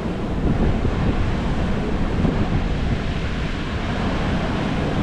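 Wind buffeting the microphone over the steady rush of heavy surf breaking on the shore.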